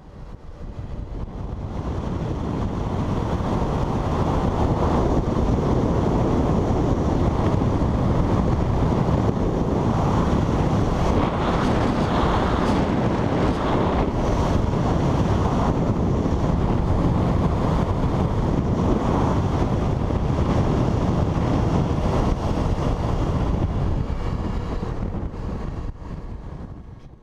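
Heavy wind rush buffeting the microphone of a Suzuki V-Strom 650 at riding speed, building over the first few seconds, then steady until it cuts off suddenly at the end.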